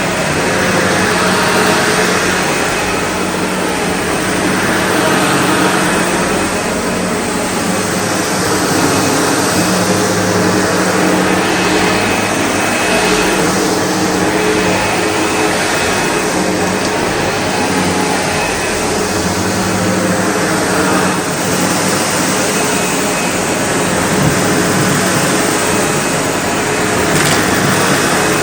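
SEBO Automatic X4 bagged upright vacuum cleaner running steadily with a motor hum, its level swelling and easing gently every few seconds.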